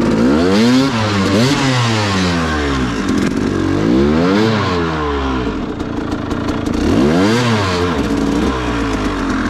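Dirt bike engine revving up and dropping back again and again, about four sharp rises in pitch, as the throttle is worked on a slow, narrow trail.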